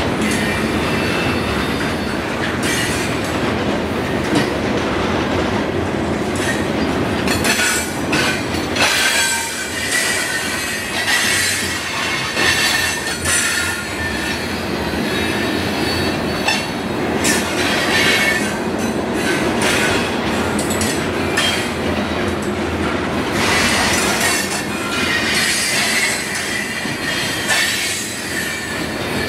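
Florida East Coast Railway freight cars rolling steadily past close by, their wheels clattering on the rails with high-pitched squeals that come and go.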